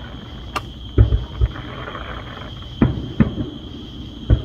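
Aerial fireworks shells bursting in the distance: about six sharp booms in irregular succession, a few of them close together.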